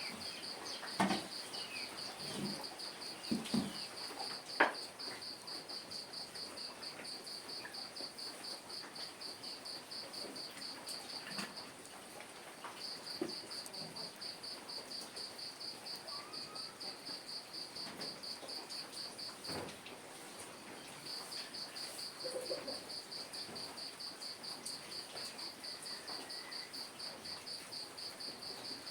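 A cricket chirping in a fast, even run of pulses that breaks off twice for about a second. A faint steady high hiss lies behind it, and a few light knocks come in the first few seconds.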